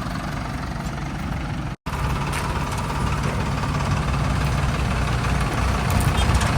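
Heavy diesel engine idling steadily. There is a split-second break in the sound a little under two seconds in.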